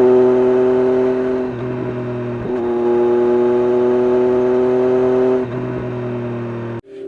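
Triumph Street Triple RS's 765 cc inline three-cylinder engine through an SC-Project S1 exhaust, running loud at a steady engine speed with an unchanging pitch. The sound cuts off abruptly near the end.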